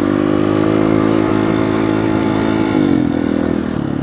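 Dirt bike engine running at steady revs while riding, then the revs drop about three seconds in.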